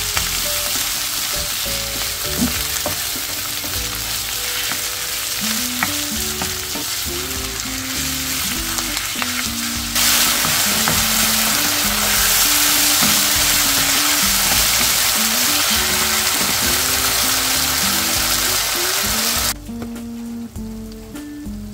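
Pork belly and vegetables sizzling in a wok as they are stir-fried, with a spatula stirring and scraping. The sizzle grows louder about halfway through and cuts off sharply near the end.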